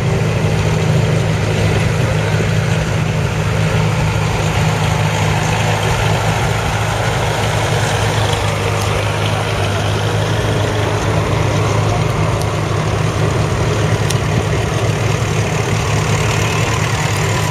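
Vintage tractor engine running steadily at low revs, an even low drone with no change in pace.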